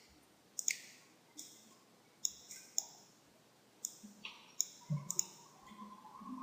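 Computer mouse clicking, about ten short clicks at irregular intervals.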